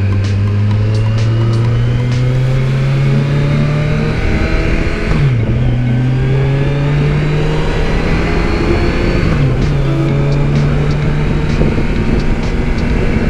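Kawasaki Versys 1000's inline-four engine accelerating up through the gears: its pitch climbs slowly, then drops sharply at two upshifts, about five seconds in and again about nine and a half seconds in.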